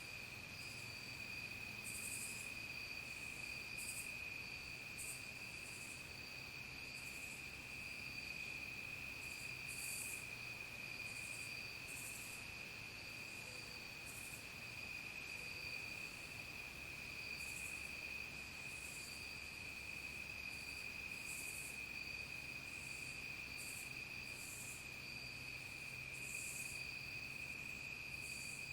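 Evening insect chorus: crickets trilling in one steady, unbroken high-pitched drone, with short, higher buzzing calls from other insects repeating every second or two.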